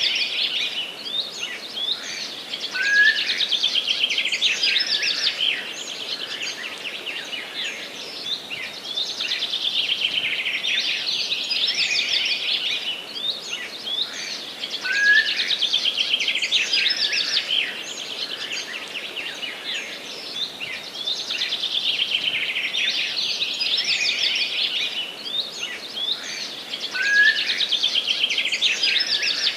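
Forest birdsong: a dense chorus of fast chirps and trills, with the same passage coming round again about every twelve seconds, each time starting with a louder burst of song.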